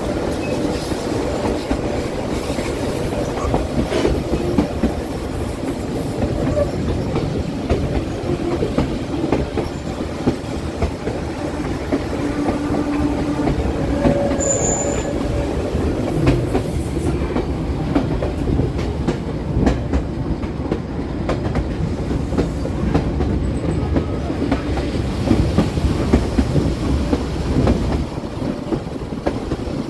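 Passenger train running over the rails on a curving mountain line, steady rumble with wheels clattering over the track and a brief wheel squeal about halfway through.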